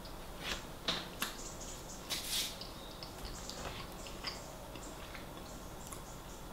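Close-miked chewing: soft wet mouth clicks and smacks as food is eaten, with a few sharper clicks about a second in and a brief louder rustle about two seconds in.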